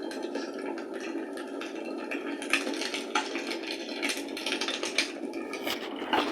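Wood fire crackling in a fireplace: a steady hiss with constant small crackles and a few sharper pops.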